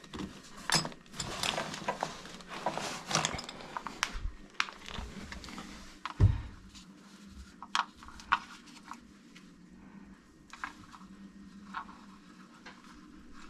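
Hand work on a plumbing fitting: irregular clicks, knocks and rustling of tools and metal parts being handled. There is one loud, dull thump about six seconds in, and the clicks grow sparser and quieter after it.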